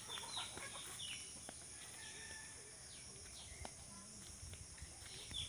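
Birds calling with short, quick falling chirps, a cluster near the start and more at the very end, over a steady high insect drone.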